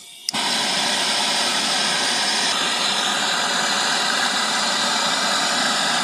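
Brazing torch flame, a steady hissing rush that starts suddenly just after a click near the start.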